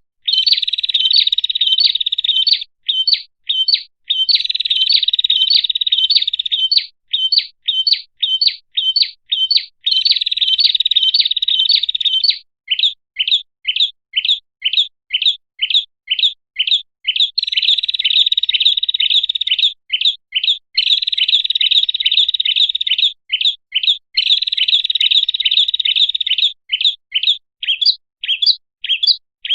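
Prinia (prenjak) calling in a lure recording. Sharp chip notes come about three to four a second, broken several times by fast rattling trills lasting two to three seconds.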